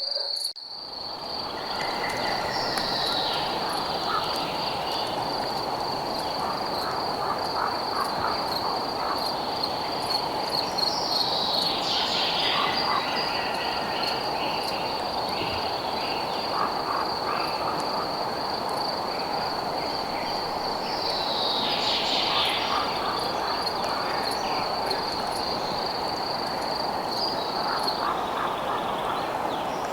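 Night chorus of insects and frogs: a steady, high, pulsing cricket-like trill that stops near the end, over a dense, even chorus, with short calls scattered through it. A few falling calls stand out about three times.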